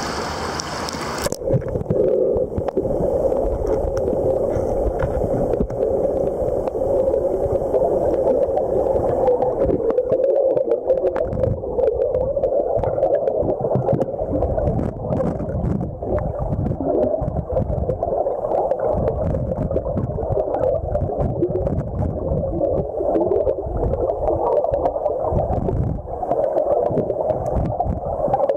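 Muffled underwater sound of river current, with many low knocks and bumps, heard through a submerged camera. It begins about a second in, when the sound turns dull and loses its brightness.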